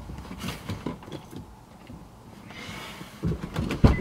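Faint rustling and small knocks inside a car, then a car door shutting with a single thump near the end.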